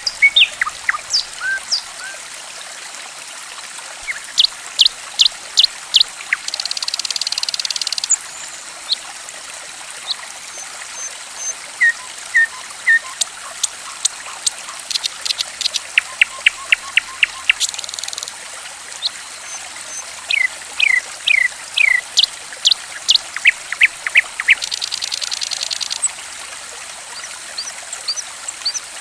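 Songbird calling over a steady trickle of running water: sharp chirps and whistled notes in quick runs of several at a time, broken three times by a buzzy trill lasting over a second.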